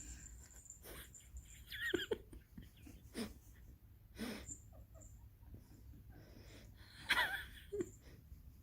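Faint, short squeaky wheezes from an animal, twice with a gap of several seconds, among a few soft clicks.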